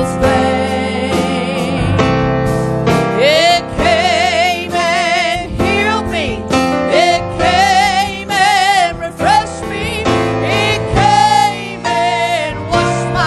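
Gospel worship music: a lead melody with strong vibrato in short phrases over sustained piano and keyboard chords.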